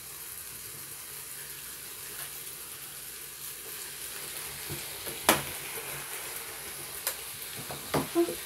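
Bacon-wrapped chicken sizzling steadily in a flip waffle maker as its grease drips out. A sharp click about five seconds in, with fainter knocks near the end.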